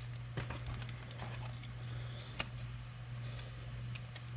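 Faint ticks and light taps of trading cards being handled and shuffled, over a steady low electrical hum.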